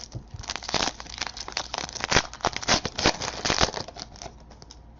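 Trading-card pack wrapper crinkling and cards being handled: a dense run of short crackles and rustles that dies away near the end.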